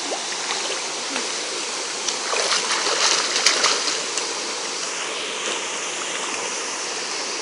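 Steady rush of a waterfall and stream, with a few seconds of splashing as someone swims through the pool about two seconds in.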